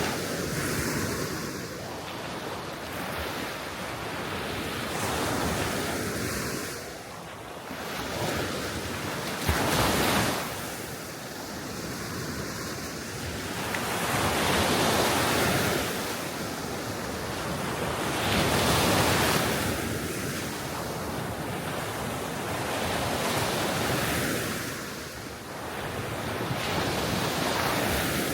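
Gentle sea waves washing onto the shore in slow swells that rise and fall every few seconds, with one sharper surge about ten seconds in, and wind on the microphone.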